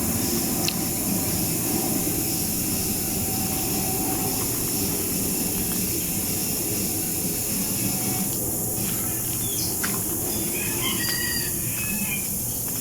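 Jet aircraft engines running with a steady rushing noise: a low rumble with a high hiss over it. A few short bird chirps come in near the end.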